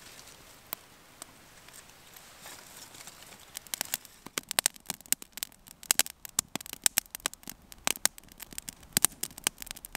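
Campfire kindling catching and beginning to crackle: a few scattered snaps at first, building into rapid crackling from about four seconds in.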